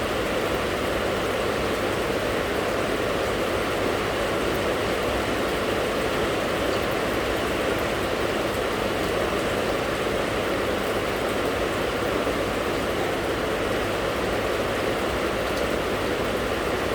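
Rain falling steadily, an even rushing noise that holds at one level throughout, with no single drops, thunder or other events standing out.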